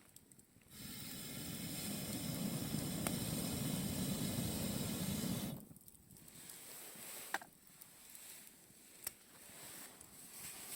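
A steady rushing hiss at a wood fire. It starts about a second in, grows slowly louder, and cuts off suddenly after about five seconds. Before and after it there are a few sharp crackles of the burning wood.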